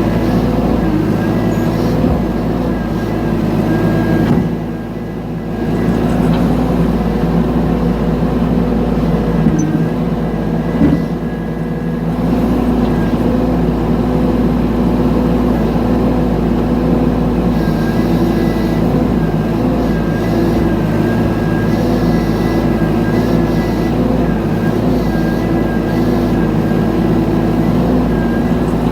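Mini excavator's diesel engine running steadily under work. It eases off briefly twice, about five and twelve seconds in, with a single knock just before the second dip.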